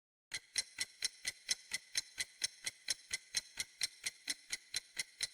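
Clock-ticking sound effect: sharp, even ticks at about four to five a second, starting about a third of a second in, the kind of countdown tick a quiz uses.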